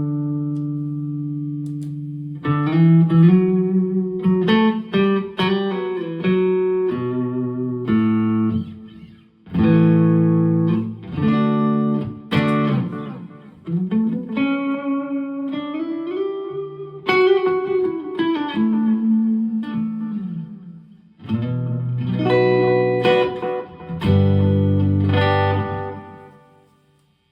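Electric guitar played through a Donner Yellow Fall II digital delay and reverb pedal into an amp: ringing chords and single-note phrases with string bends, with a pause about nine seconds in, and the last chord dying away near the end.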